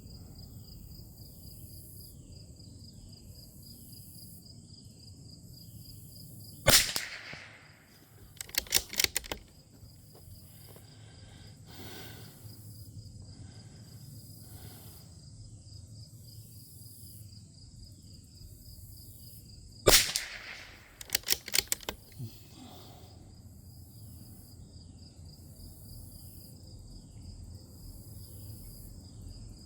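Two .22 rimfire shots from a Bergara B14R bolt-action rifle, about 13 seconds apart. A second or two after each shot comes a quick run of clicks as the bolt is worked for the next round. Insects chirp steadily underneath.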